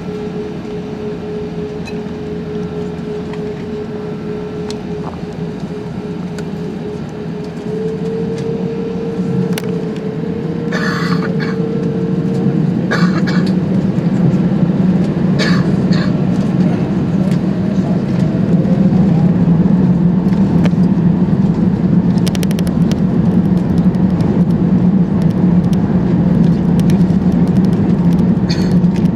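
Airbus A380's Rolls-Royce Trent 900 engines heard from inside the cabin, throttling up for takeoff. The steady hum grows from about eight seconds in into a loud, continuous rumble. A few short rattles from the cabin come as the takeoff roll builds.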